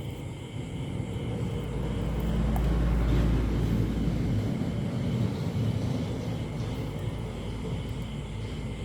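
A low outdoor rumble that swells to its loudest about three seconds in, then slowly fades, with a steady high hum underneath.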